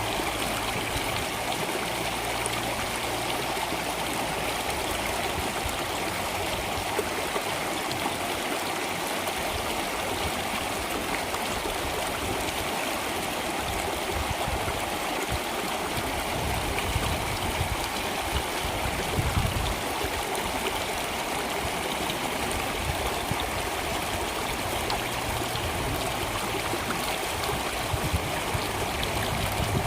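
Flowing water running steadily, an even rushing noise that holds constant throughout.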